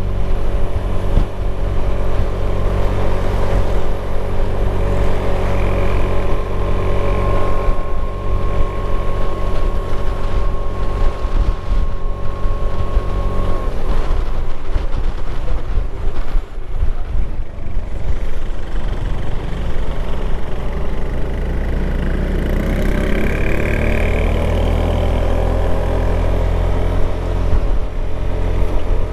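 Motorcycle engine running steadily while riding, mixed with wind rumble on the microphone. The engine note shifts about halfway through and rises and falls near the end.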